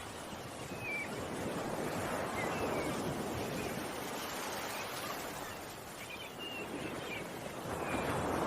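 Ocean waves washing on a shore, surging and ebbing in slow swells, with a few short bird chirps over the surf.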